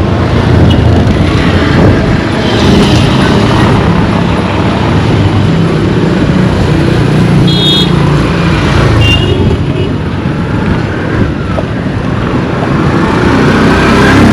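Road traffic: motor vehicles running and passing close by, with a steady low rumble and two short high tones about halfway through.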